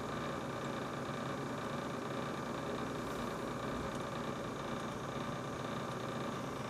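Brand-new GE refrigerator running with a steady hum and whir that carries several constant tones.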